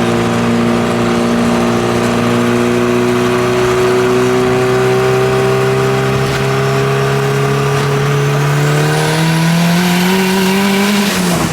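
Turbocharged Nissan KA24 four-cylinder engine on E85 under a full-throttle pull. Its revs climb slowly, then faster in the last few seconds, and fall away sharply at the very end as the throttle is lifted.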